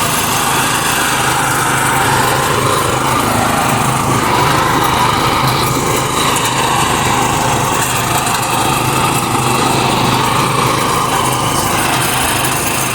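Mini tractor's engine running steadily at an even speed.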